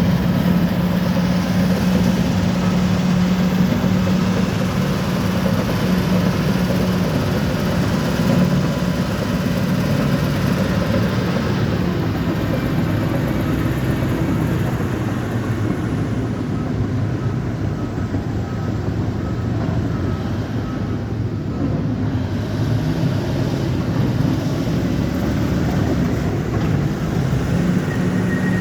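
Bulldozer's diesel engine running under working load. Its pitch sags somewhat about halfway through and rises again near the end.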